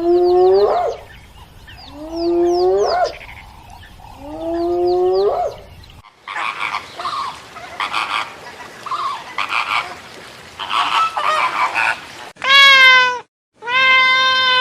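Animal calls from several different animals. First come three separate calls that rise sharply in pitch, about two seconds apart. Then a stretch of many short, overlapping calls follows. Near the end there is a loud pitched call and, after a brief break, a long, steady cry.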